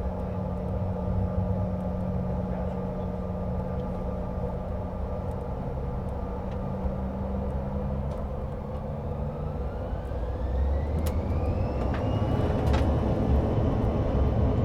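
Cabin of a CRJ-550 regional jet: the twin rear-mounted turbofans hum steadily, then from about eight seconds in their whine rises in pitch and grows louder before holding at the higher note, the engines spooling up as for the takeoff roll. A sharp click sounds near the end.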